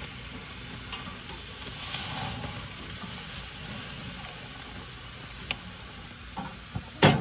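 Hot gas grill sizzling with a steady hiss, a few faint ticks through it and one loud knock near the end.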